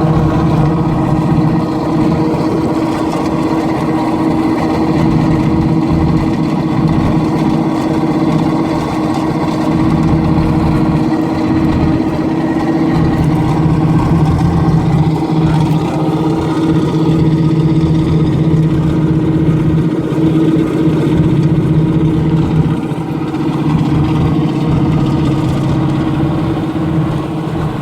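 Pontiac Firebird Formula 400's V8 engine running steadily at idle, its pitch holding even.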